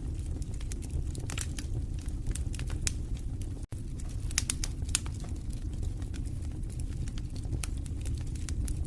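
Wood fire crackling in a fireplace: a steady low rush from the flames with irregular sharp pops and crackles, some in quick clusters. The sound cuts out for a split second just under four seconds in.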